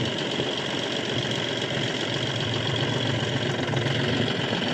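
Tractor's diesel engine running steadily, a low even chug with no change in speed.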